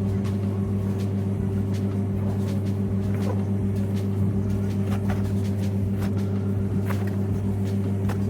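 Bulldozer's diesel engine running steadily at an even pitch, with scattered short knocks and clanks over it.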